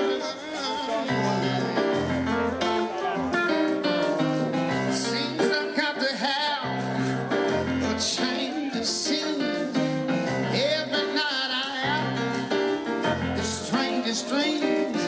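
Live blues-rock band playing a mid-tempo song, with singing over bass, guitars and a steady beat.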